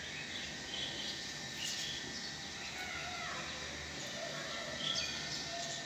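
Quiet ambient background with scattered faint bird chirps.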